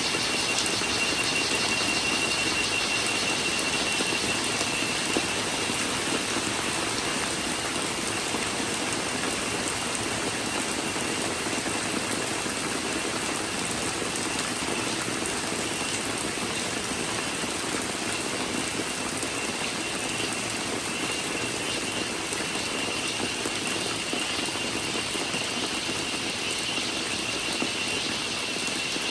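Steady rain falling, with a thin, high, steady cicada drone over it that fades through the middle and comes back near the end.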